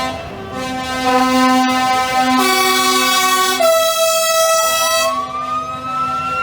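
Truck air horns blowing long multi-note chords that change notes twice. Over the last two seconds a siren rises in pitch over them.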